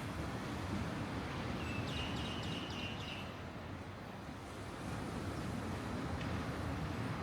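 Steady low outdoor rumble, with a brief high chirping call about two seconds in.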